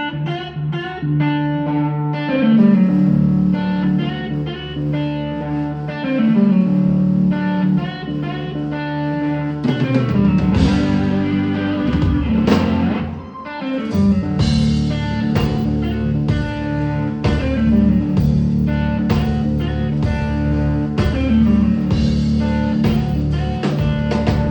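Live blues-rock band playing an instrumental intro: a guitar riff over a low sliding line, with drums and the full band coming in about ten seconds in and a brief drop just before thirteen seconds.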